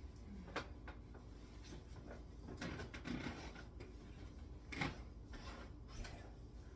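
Faint scattered knocks and handling noises in a quiet room, with a louder clunk about five seconds in.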